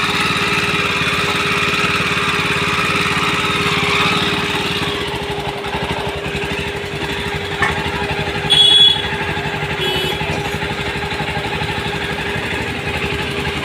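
Jawa 42 motorcycle's single-cylinder engine running, held at a higher speed for the first few seconds, then settling to a lower, steady idle. A sharp click comes about eight seconds in, followed by a brief louder sound.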